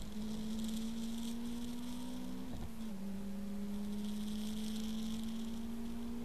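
Car engine droning steadily with a low hum. Its pitch creeps slowly up and drops abruptly about two and a half seconds in, then creeps up again, over a faint hiss.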